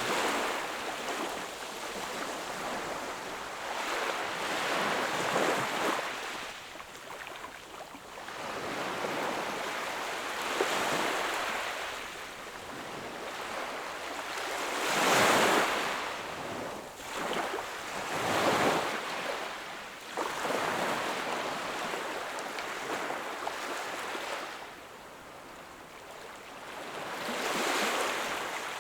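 Sea waves breaking and washing onto the shore, swelling and ebbing every few seconds, with the two strongest surges a little past halfway.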